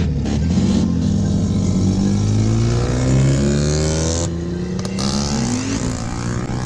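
Car engines revving and accelerating: the engine note climbs in pitch for a couple of seconds, falls back, then climbs again near the end.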